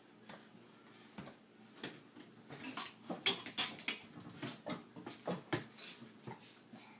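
A rapid, irregular series of light knocks and clicks, like small hard objects clattering.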